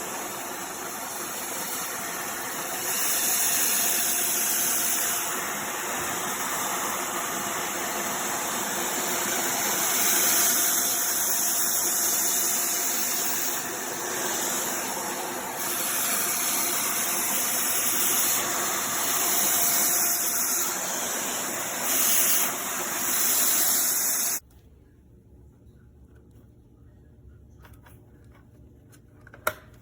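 Upright vacuum cleaner running with a steady whine and hiss, its level swelling and dipping, then switched off suddenly about 24 seconds in, leaving a faint low hum; a few sharp clicks near the end.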